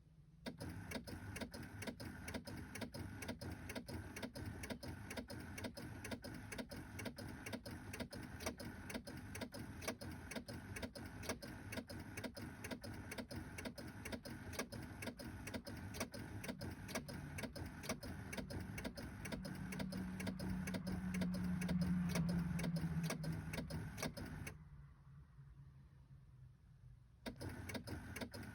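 Rapid, even electrical clicking or chattering from a 2006 Chevy HHR that won't start, several clicks a second, with a hum that swells partway through. The clicking stops for a few seconds near the end, then starts again.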